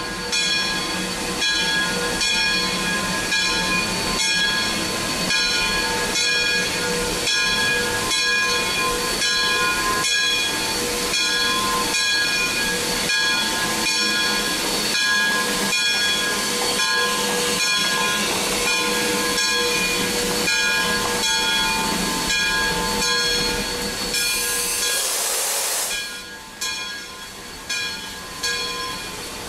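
Two-truck Shay geared steam locomotive working, its exhaust chuffing in an even rhythm with several steady high tones sounding through it. Near the end a burst of steam hiss rushes out for about two seconds, then the chuffing falls quieter and less regular.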